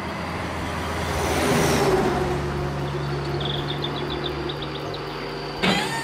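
Truck engine sound effect running steadily, swelling to its loudest about two seconds in, then ending with a sharp thump near the end.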